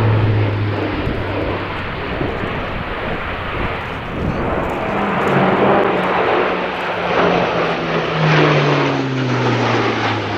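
Airbus A400M's four Europrop TP400 turboprop engines running loud in display flight: a broad roar with a low propeller hum whose pitch slides slowly downward in the second half.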